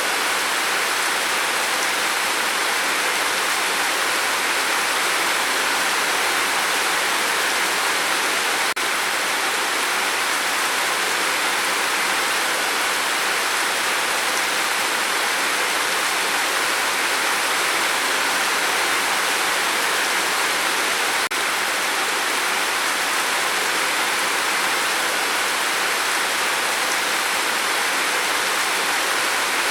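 Steady rain falling, an even, unbroken hiss of many drops with no single drop or other event standing out.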